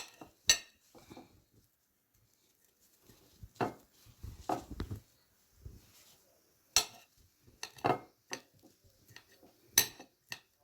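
A table knife slicing grilled chicken strips, its blade knocking and clicking against the plate beneath at irregular intervals, about ten sharp knocks.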